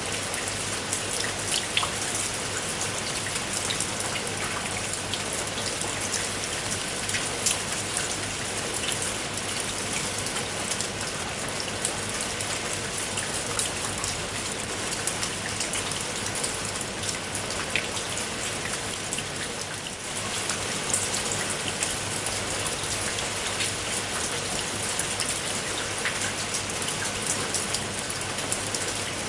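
Steady rain, an even hiss with many single raindrops ticking out sharply above it.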